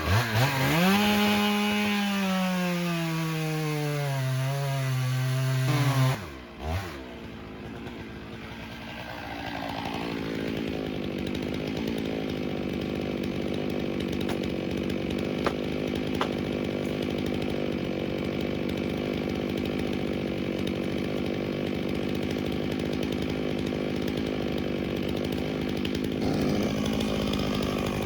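Chainsaw revving to full throttle and cutting, its pitch sagging steadily under the load of the cut for about six seconds before the throttle is let off suddenly. A steadier, quieter engine sound then runs on for the rest of the time.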